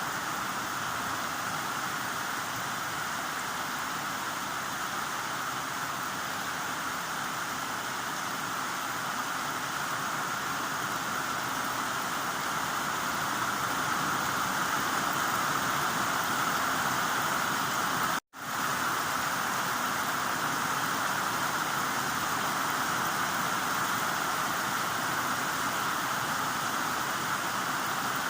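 Heavy rain falling as a steady, dense hiss, broken once by a split-second gap of silence about two-thirds of the way through.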